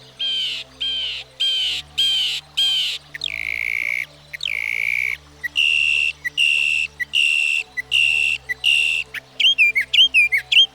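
Northern mockingbird singing, repeating each phrase several times before switching. It gives about six quick descending notes, then two long harsh notes, then a run of about seven repeated notes, and ends with rapid twisting notes.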